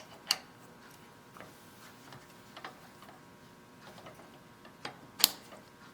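Milling-machine tooling handled by hand as a drill chuck is set in: a few light metallic clicks and taps at irregular intervals, with a sharper click just after the start and the loudest one about five seconds in.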